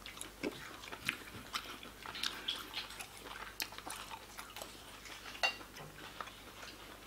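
A man chewing barbecued ribs, with soft, irregular wet clicks and lip smacks from his mouth and one sharper click about five and a half seconds in.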